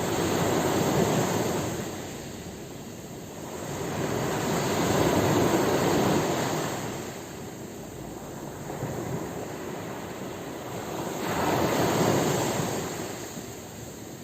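Ocean waves breaking on a shore: three slow swells of surf noise, each rising and falling away over a few seconds.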